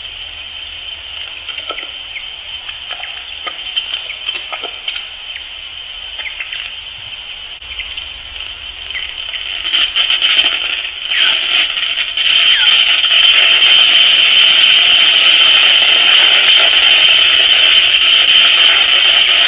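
Noctule bats squeaking and clicking at a tree-hole roost, with short high squeaks and scattered clicks over a steady high hiss. The hiss gets louder about twelve seconds in.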